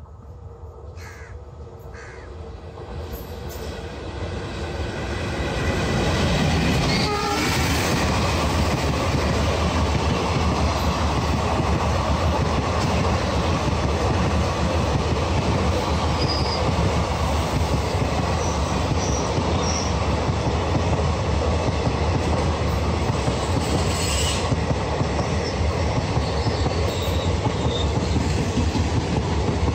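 Passenger train hauled by a WDM-3A diesel locomotive (ALCO 251 V16 engine) approaching and passing close by. Its sound grows from a distant rumble over the first six seconds, with the horn sounding, then settles into the steady rumble and clatter of coaches rolling past. A few faint wheel squeals come in the later part, and a sharp clank about three-quarters through.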